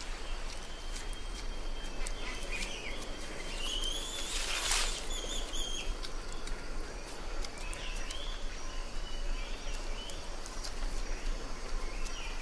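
Mangrove swamp ambience: scattered short bird chirps over a steady hiss, with a brief noisy burst about five seconds in.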